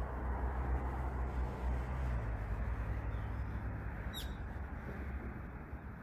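Steady low rumble and hiss of background noise, heavier in the first two seconds, with a single brief, high bird call about four seconds in.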